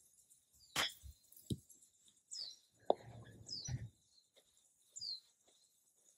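A small bird chirping three times, each a short falling chirp, with a few sharp clicks in between, the loudest about a second in and another near the middle.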